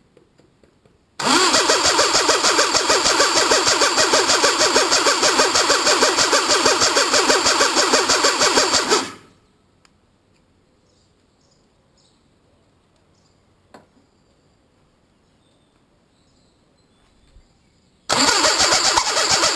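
Citroën diesel engine started for the first time: it starts suddenly about a second in and runs loud with a fast, even pulsing for about eight seconds, then stops. After a quiet pause with a single click, it starts again near the end.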